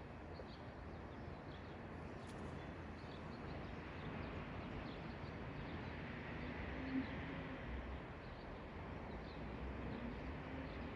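Outdoor ambience: steady background noise with faint, scattered bird chirps.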